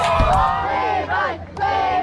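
A group of people shouting and cheering together, many voices overlapping, with a short dip in the middle. Electronic music with a heavy bass line cuts out about half a second in.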